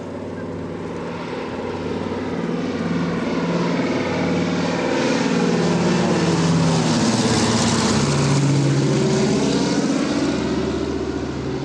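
Propeller-driven military aircraft flying past overhead. The engine drone swells, peaks and then fades, and its pitch drops as it passes.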